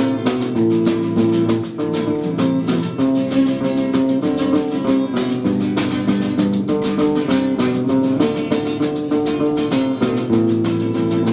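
Instrumental music: a strummed acoustic guitar playing chords in a steady rhythm, with no singing.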